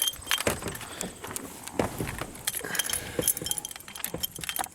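A bunch of car keys jangling and clinking, with scattered small knocks and clicks.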